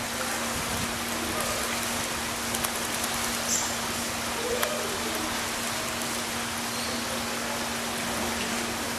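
Steady rushing of running water, an even hiss with no breaks, over a low steady hum.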